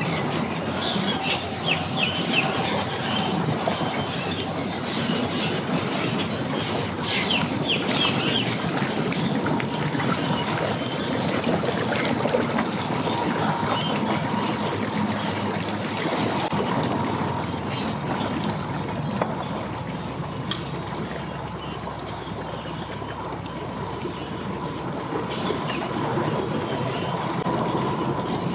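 An engine running steadily, with birds chirping through the first several seconds.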